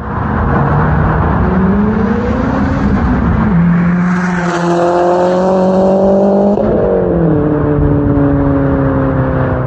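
Gen 1 Mazdaspeed 3's turbocharged 2.3-litre four-cylinder, fitted with a big BNR S5 turbo and external wastegate, pulling hard under acceleration. Engine pitch climbs, drops sharply at a gear change about a third of the way in, climbs again and drops at a second shift about two-thirds through.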